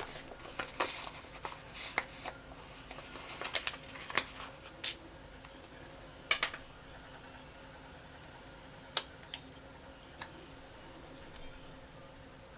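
Planner stickers and paper being handled on a desk: scattered rustles, crinkles and light clicks, busiest in the first few seconds, then a few isolated sharp ticks, over a steady low hum.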